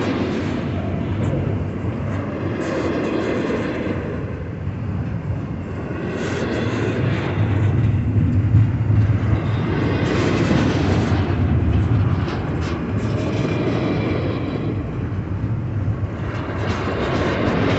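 Freight train rolling past a grade crossing: a continuous rumble with wheel-on-rail noise and clatter from the last double-stack container cars, which carries on and swells again after the cars have cleared.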